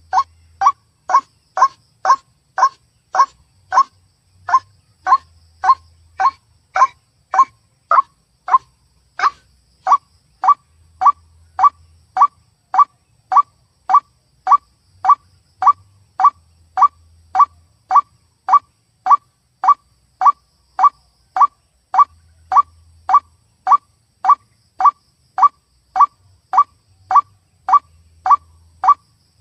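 White-breasted waterhen (ruak-ruak) calling: one short note repeated steadily, about twice a second.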